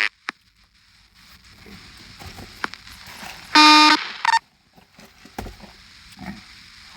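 Police radio channel between transmissions: a click as the previous transmission drops, faint static, then a buzzy half-second radio tone about three and a half seconds in, followed by a short blip.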